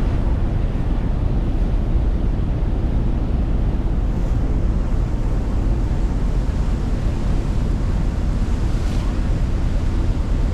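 Steady wind buffeting the microphone over a low rumble and rushing water, as on the deck of a ferry under way.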